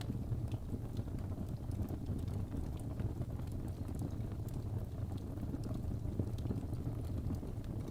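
Fireplace fire crackling: a steady rumble of burning with scattered small pops and snaps.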